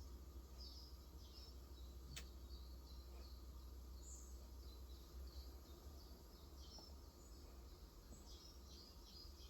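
Faint twittering of small birds, short high chirps repeating throughout, over a low steady hum, with a single sharp click about two seconds in.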